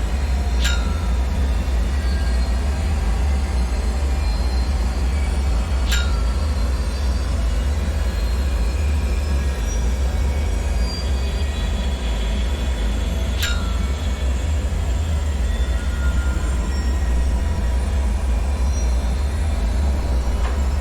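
Dark bunker ambience: a steady deep rumbling drone under a hiss, with faint high metallic squeaks drifting through and three sharp high pings, each with a short ring, about six to seven seconds apart.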